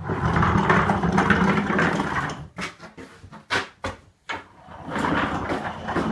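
Wooden pull-toy's wheels rolling and rattling across a hard surface as it is pulled along. The rolling stops partway through, leaving a few separate wooden knocks, then starts again near the end.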